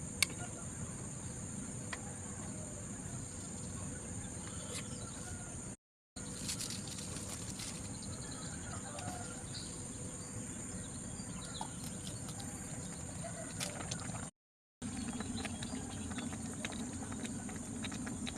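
Insects trilling steadily at a high pitch over a low background hiss, with a few faint clicks; the sound drops out twice for a moment.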